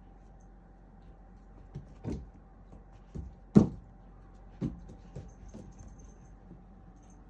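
Cats playing, their bodies and paws knocking and thumping against the floor or furniture: about six soft knocks, one much louder thump about three and a half seconds in.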